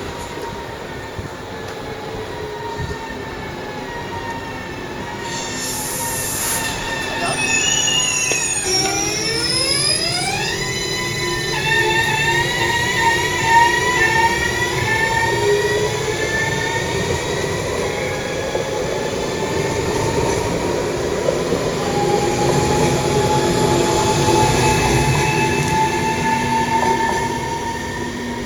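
Electric train moving through the station: its traction motors whine with several tones that dip and then climb about a third of the way in, then hold steady, over a rumble of wheels on rails with some wheel squeal.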